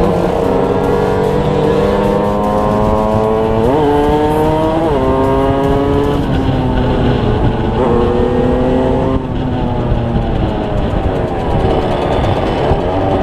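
Tuned two-stroke motorcycle engine under way, its pitch climbing with the revs. It jumps up sharply twice about four and five seconds in, then drops and rises again as the rider works the throttle and gears.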